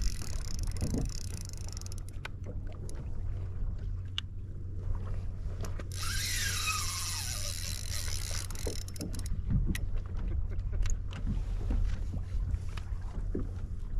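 Steady low hum and water noise around a fishing kayak, with scattered light knocks. About six seconds in comes a hissing burst of a couple of seconds carrying a whine that falls in pitch.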